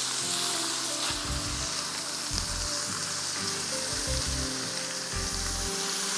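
Chicken pieces with ginger-garlic paste and ground spices sizzling steadily in hot oil in a nonstick wok while being stirred and turned with a silicone spatula: the bhuna stage, browning the meat and masala before tomatoes go in.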